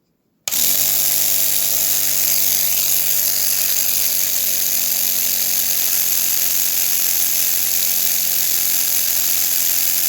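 Small battery-powered air compressor switched on about half a second in and running steadily, a motor hum with hiss, being tested after its check valve was cleaned and refitted because it would not build pressure.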